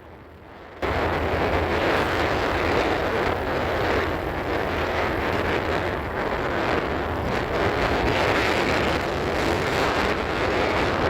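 Steady rushing noise of a moving vehicle with wind buffeting the microphone, starting abruptly about a second in.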